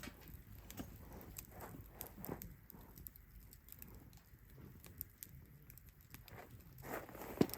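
Wood campfire crackling, with irregular small snaps and pops and one sharper, louder pop near the end.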